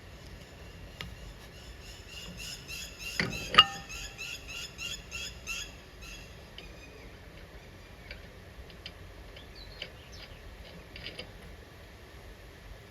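Two sharp metal clinks a third of a second apart about three seconds in, the loudest sound, over birds chirping in a quick repeating call, with a few faint ticks and chirps later.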